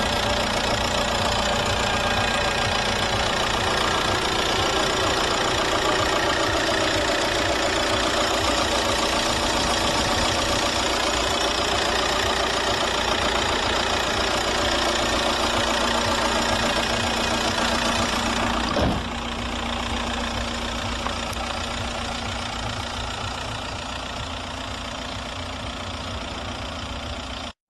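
2003 Audi A4's 1.9 TDI four-cylinder turbodiesel engine idling steadily. Roughly two-thirds through there is a brief click, after which the engine sound is a little quieter and eases down slightly.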